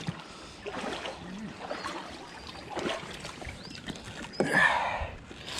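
Shallow water sloshing and splashing, with scattered light knocks and a louder splash about four and a half seconds in.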